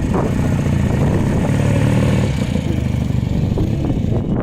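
A motorcycle engine running loudly and steadily at low revs.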